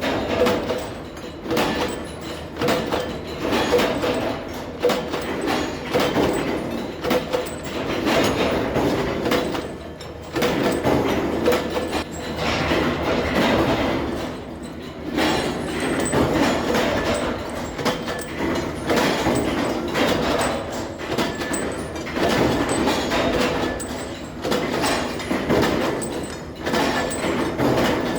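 Bolt-factory machinery running with a dense, continuous clatter of metal knocks that swells and eases every few seconds.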